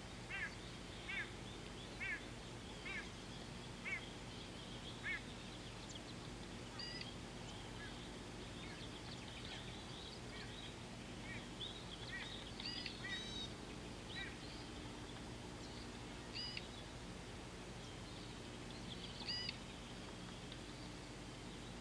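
Wild birds calling: one bird gives a series of short honking calls about once a second, thinning out after about five seconds, and then other birds chirp and whistle on and off. A faint steady low hum lies underneath.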